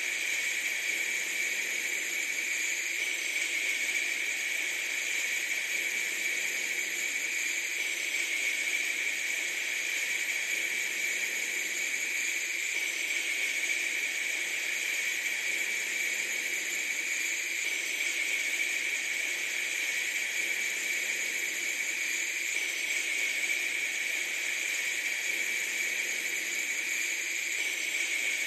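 Steady hissing noise with a bright band high up and little low end, its pattern repeating about every five seconds.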